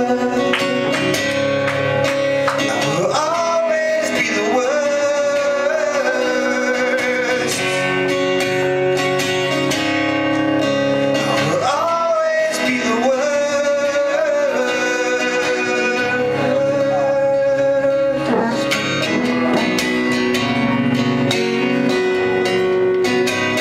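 Live band music led by guitar, with a melody line that slides up in pitch three times.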